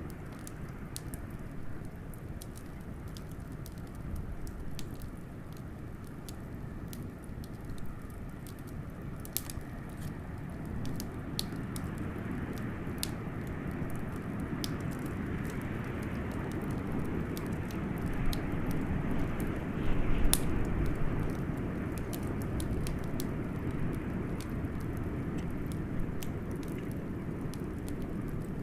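Wood fire crackling with scattered sharp pops, two of them louder, over a steady rush of blizzard wind that swells about halfway through.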